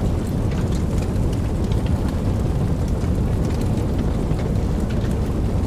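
Steady rain with a deep, even low rumble underneath and faint scattered drop ticks on top.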